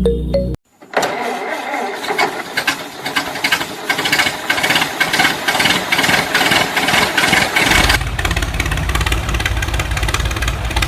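A small motor running: a hissy, rattling sound with rapid clicks from about a second in, changing about eight seconds in to a deeper, fast, even chugging.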